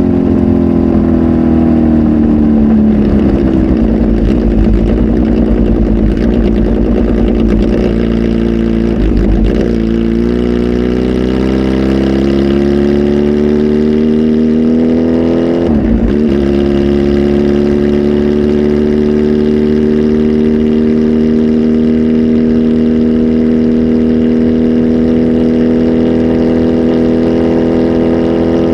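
Kawasaki Z H2 SE's supercharged inline-four engine running through a full aftermarket exhaust on a flash tune. Its pitch falls over the first few seconds, wavers about ten seconds in, dips briefly about sixteen seconds in, then climbs slowly and steadily.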